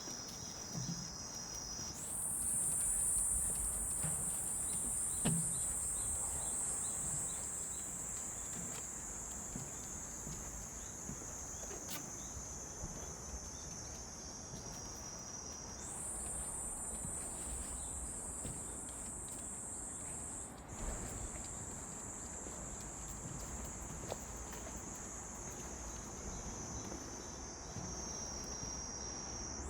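Cicadas singing in a loud, steady high-pitched drone. The buzz jumps up in pitch about two seconds in and again about halfway through, sinking slowly between.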